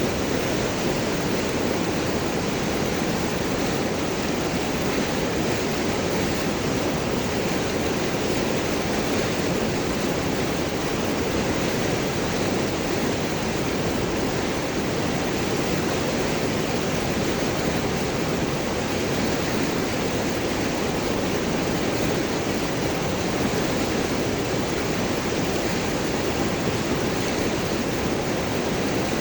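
River water rushing and gurgling over large rocks, a steady, unbroken sound.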